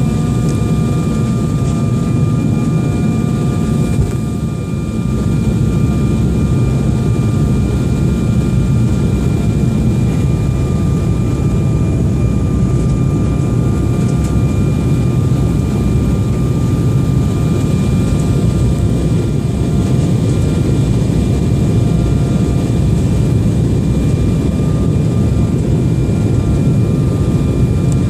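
Passenger jet's engines and rushing air: a steady, loud rumble with several faint, steady whining tones above it, dipping slightly about four seconds in.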